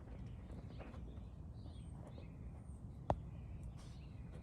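Storm ambience: a steady low rumble with faint scattered chirping calls, and one sharp tap about three seconds in, the loudest sound.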